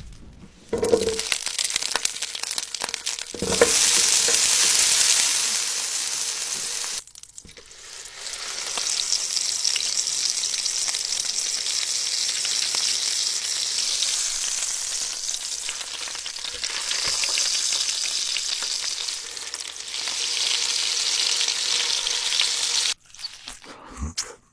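Food frying in hot oil, a steady loud sizzle. It breaks off suddenly about seven seconds in, starts again a second later and cuts off shortly before the end.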